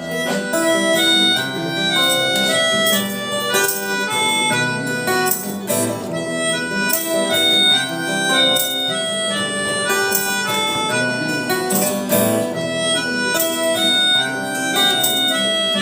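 Instrumental intro of a rock song: a harmonica melody over strummed guitar, with regular percussive hits.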